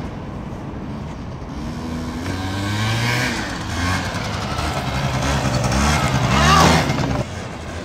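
Small scooter engine revving hard twice, its pitch climbing and getting louder to a peak, then suddenly cut back near the end, as the throttle is snapped open to pull a wheelie.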